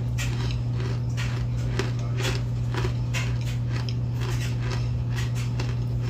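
Close-up chewing of homemade baked animal crackers, an even rhythm of about two crunchy chews a second. A steady low hum runs underneath.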